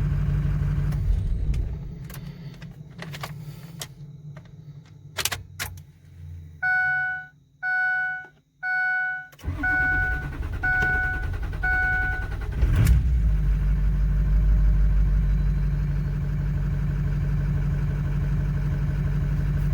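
A hot 2005 Ford 6.0 Powerstroke V8 turbodiesel is shut off, a warning chime beeps six times after the key is turned back on, then the engine cranks for about three seconds and catches near the middle, settling into a steady idle. It is a hot restart test: the engine now starts hot after a leaking injector top seal was fixed.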